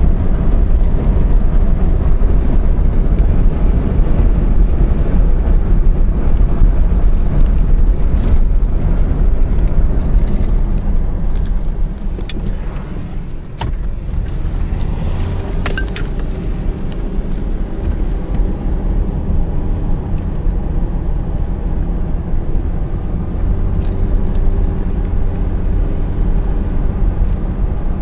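Car driving along a road: a steady low rumble of road and engine noise that eases off for a couple of seconds about halfway through, then builds again.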